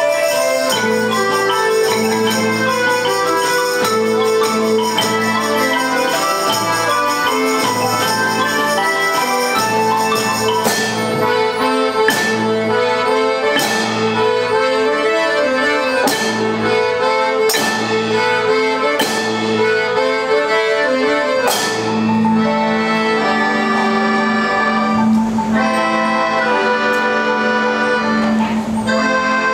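A children's rhythm band playing: accordion chords under a xylophone melody, with percussion. Through the middle, sharp strikes land about every second and a half; near the end, the band settles into long held chords.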